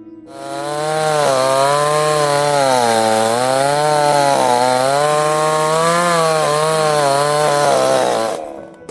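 Chainsaw running under load, its engine pitch sagging and picking up again several times as it cuts, for about eight seconds before stopping.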